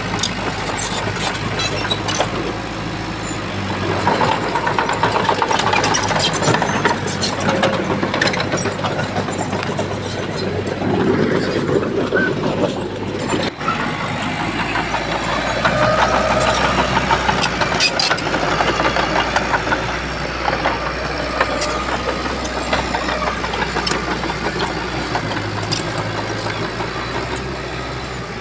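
Heavy diesel engine of a bulldozer running and working, its pitch and loudness rising and falling, with scattered metallic clanks and knocks.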